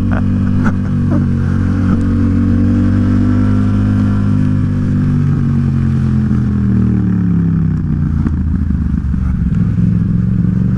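Yamaha XSR700's parallel-twin engine running under way: the pitch holds steady at first, falls as the bike slows about halfway through, then rises again as it picks up speed near the end.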